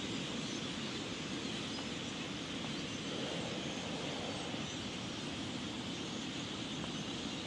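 Steady outdoor background rush, an even noise with no distinct events.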